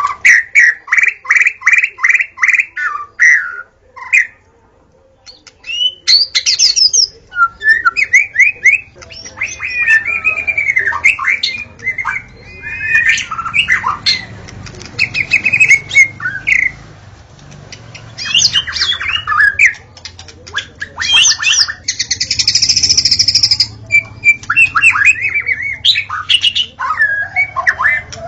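White-rumped shama (murai batu) singing. It opens with a quick run of repeated whistled notes, about three a second, then pauses briefly. After that come varied phrases of clear rising and falling whistles, rapid trills and harsher notes.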